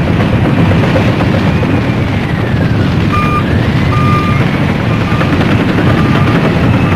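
Heavy earth-moving machine running with a loud, steady rumble, its reversing alarm beeping several times from about three seconds in.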